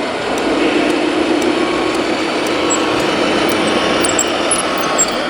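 1:14 scale radio-controlled model trucks and construction machines running, giving a steady motor hum.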